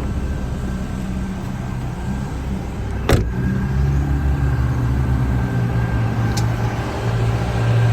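A car engine idling steadily, with a sharp click about three seconds in and a fainter click near the end.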